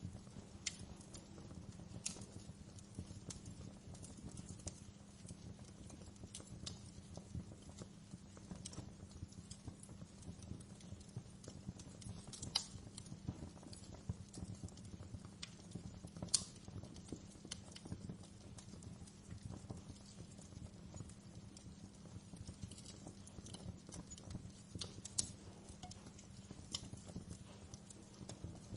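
Wood fire crackling in a fireplace: a low steady rumble of the flames with irregular sharp snaps and pops, a few louder ones standing out.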